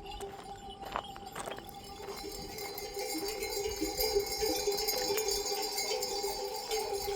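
Livestock bells clinking and ringing together as a flock moves, growing louder from about halfway through, with a few sharp clicks in the first second and a half.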